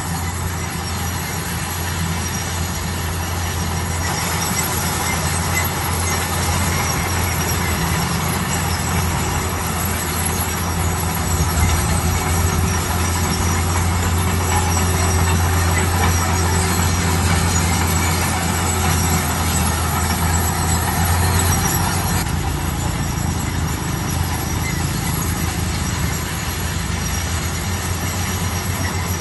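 Bulldozer engine running with a steady low drone as the machine works, a little louder through the middle, with faint high-pitched tones from the running gear above it.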